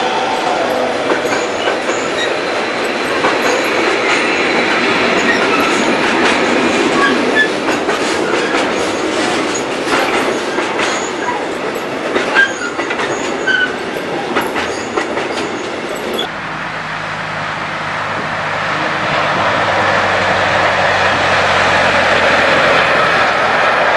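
Freight train of container wagons rolling past: steady rumble with wheels clicking over rail joints and brief high wheel squeals. About two-thirds through the sound changes abruptly to an approaching train headed by two TRAXX electric locomotives, a low steady hum under rolling noise that grows louder.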